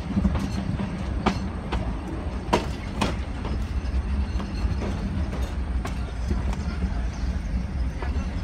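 Metre-gauge Nilgiri toy train rolling slowly into a station: a steady low rumble from the carriage, with irregular sharp clacks and knocks of the wheels over rail joints and points, two of them louder about a third of the way in.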